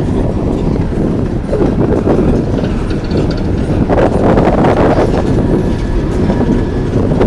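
Coal train's freight cars rolling along the track in a steady loud rumble, with clicks of wheels over the rail joints about halfway through and a faint wheel squeal after.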